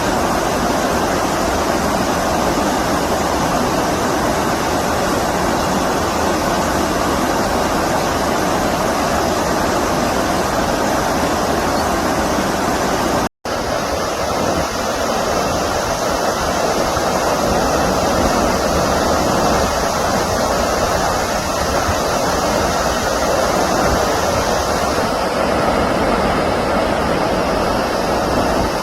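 Stream water rushing steadily over a shallow bed, an even continuous sound that cuts out for a split second about halfway through.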